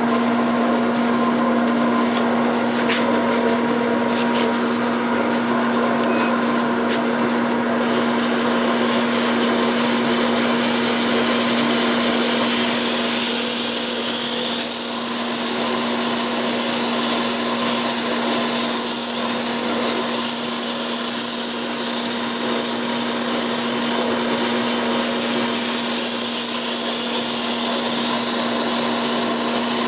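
Wood lathe's motor running with a steady hum as a walnut handle blank spins. About eight seconds in, a loud steady hiss of a tool working the wood joins it and carries on.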